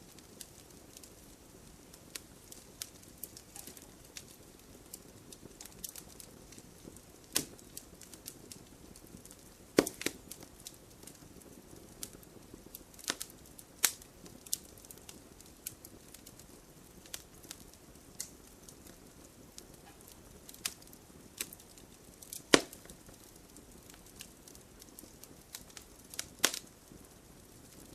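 Wood campfire crackling, with irregular sharp pops and snaps over a soft steady hiss; a few pops stand out loud, about ten seconds in and again past twenty-two seconds.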